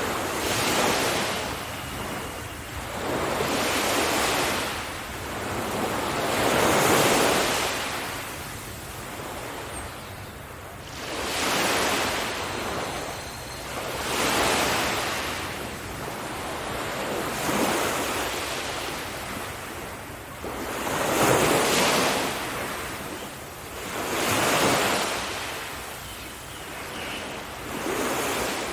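Sea waves breaking on a beach one after another, each surge of surf swelling and washing back about every three seconds.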